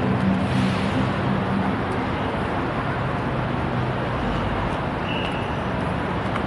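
Steady wind and road noise on a moving bicycle with traffic passing, and a low hum in the first couple of seconds.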